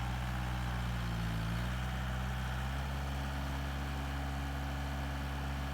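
Engine idling steadily: a low, even hum that shifts slightly in pitch about a second and a half in and again near three seconds.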